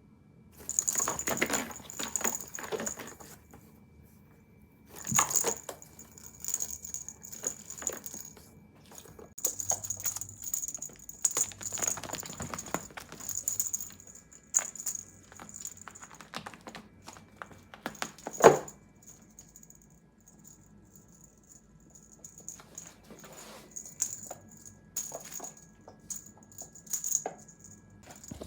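A small bell jingling on and off, with rustling and scattered light knocks from a pet cat playing. There is one sharp knock about eighteen seconds in.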